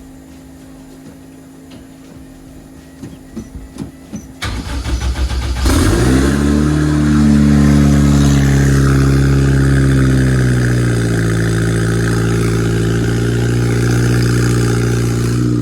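Honda K-series four-cylinder engine in a Toyota MR2 being cranked by the starter for about a second, then catching about five and a half seconds in, revving briefly and settling into a steady idle.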